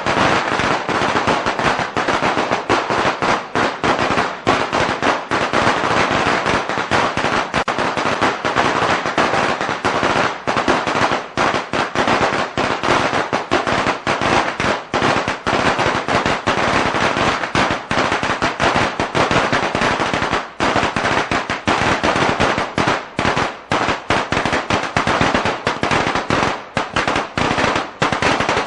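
A long string of firecrackers going off in a rapid, unbroken crackle of sharp bangs, many reports a second, with no let-up.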